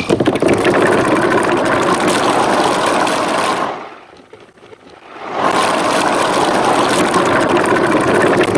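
Marbles rolling and rattling down a handmade marble-run track. It is a dense, loud clatter for the first three and a half seconds, drops away for about a second and a half, then comes back just as loud to the end.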